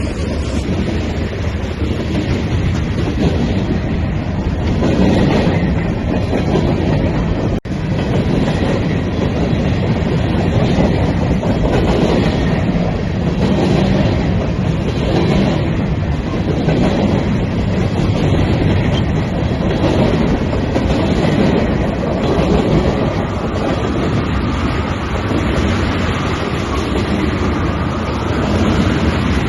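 Freight train rolling past, the wheels of its cars clattering over the rail joints in a steady, regular rhythm.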